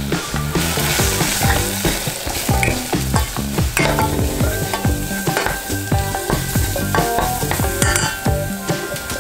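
Chopped onion, curry spices and tomato paste sizzling as they are toasted in a stainless steel saucepan. A plastic spoon stirs them, with frequent small knocks and scrapes against the pan.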